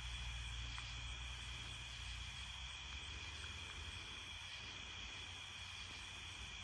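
Faint, steady chorus of night-singing crickets, a continuous high trill, over a low steady hum that eases off about two seconds in.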